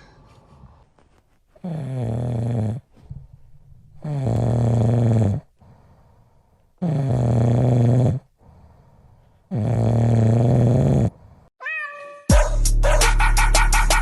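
An animal gives four long, low drawn-out calls, evenly spaced. A short higher call follows, then loud electronic dance music with a heavy beat starts near the end.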